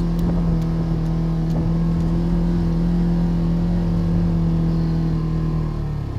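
Polaris RZR Trail side-by-side's engine running at a steady speed, easing off near the end.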